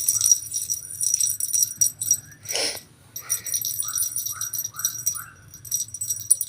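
A small bell on a cat toy jingling as it is shaken in quick bursts, with a short noisy burst about two and a half seconds in and a run of five short chirps in the middle.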